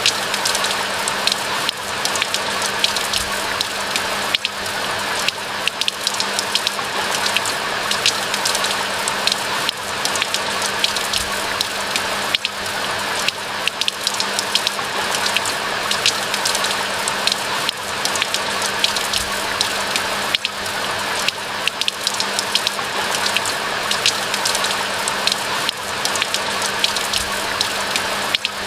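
Steady rain falling in a forest: a dense, even hiss of countless small drop impacts, with a faint low hum held underneath.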